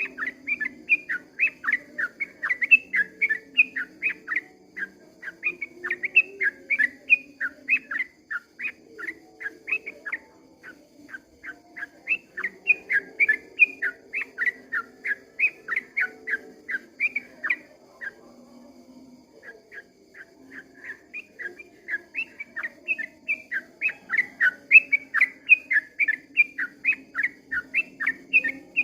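Yellow-vented bulbul (trucukan) singing a long, rapid run of short chirping notes, about five a second, breaking off briefly about two-thirds of the way through before starting again.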